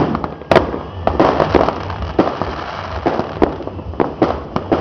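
Fireworks going off: an irregular run of sharp bangs and pops, several a second, with one of the loudest about half a second in.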